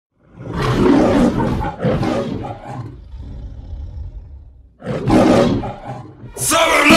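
Two long, rough roars, the first lasting about two and a half seconds and the second about a second, starting near five seconds in; music begins just before the end.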